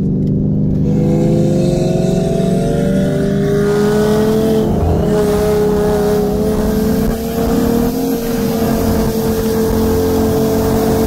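Twin-turbocharged 2019 Ford Mustang GT's V8 pulling under load, heard from inside the cabin. Its engine note climbs gradually, with a short break in the note about five seconds in.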